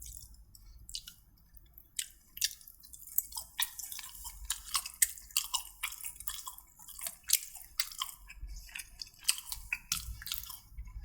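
A person chewing food close to the microphone, with many small irregular wet mouth clicks and smacks.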